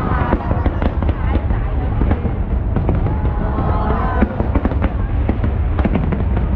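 Fireworks display: a dense, continuous run of crackles and pops from many bursting shells over a steady low rumble.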